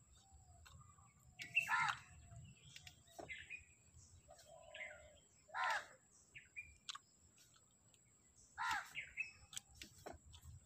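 Birds calling: several short chirps and calls, the loudest about two, six and nine seconds in, over a faint steady high-pitched whine.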